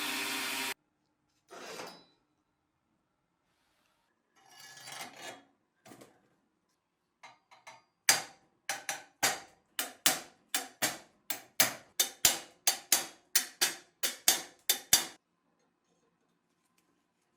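A power tool cuts off right at the start, then a few scattered scrapes. From about eight seconds in comes a run of about twenty quick hand strokes of a tool rubbing on a part, roughly three a second, ending about two seconds before the end.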